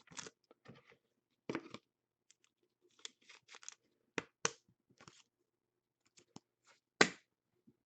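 Scattered short rustles and clicks of hockey trading cards and their packaging being handled, the loudest one about seven seconds in.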